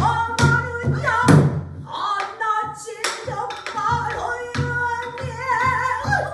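Pansori singing: a voice holding long, wavering notes with heavy vibrato, accompanied by a buk barrel drum whose sharp strokes fall every second or so.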